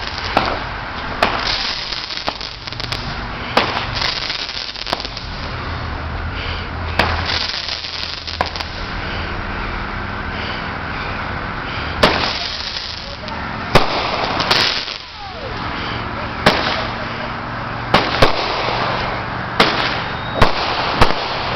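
Fireworks going off: a run of sharp bangs and pops at irregular intervals over a steady crackling hiss, with a brief falling whistle about two-thirds of the way through.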